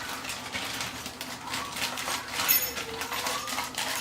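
Small metal parts and hand tools clinking and rattling against each other, a run of light clicks and knocks, as a garbage disposal's fittings are worked loose under a kitchen sink.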